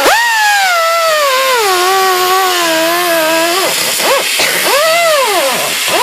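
Handheld power tool's motor whining over a steady abrasive hiss. Its pitch sags slowly as it bogs under load, then rises and falls twice in quick swells near the end as the load comes and goes.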